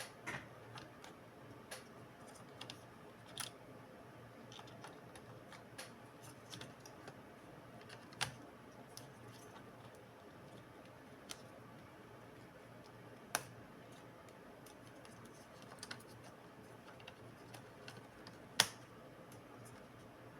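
Scattered light clicks and taps of small plastic and metal laptop parts being handled during disassembly or reassembly, with three sharper clicks standing out, over a faint steady low hum.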